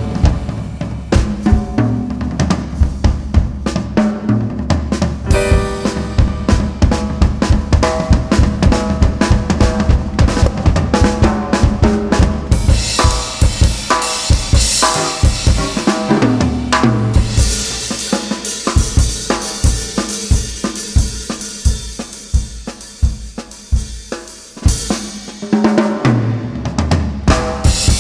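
Jazz combo playing, with a busy drum kit to the fore: kick drum, snare and rimshots in a quick steady pattern, bass and other instruments underneath, and cymbals ringing out through the middle stretch.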